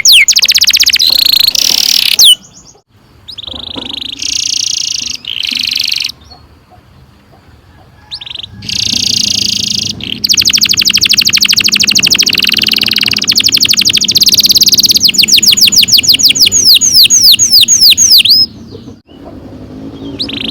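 Domestic canary singing long rolling trills of very rapid repeated notes, broken by fast sweeping chirps. It sings in several bursts, with short pauses about 3 and 7 seconds in.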